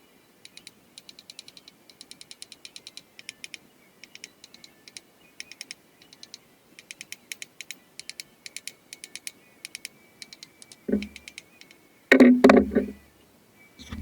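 Rapid, light mechanical clicking in irregular bursts, ratchet-like, followed near the end by a louder knock and a heavier clatter.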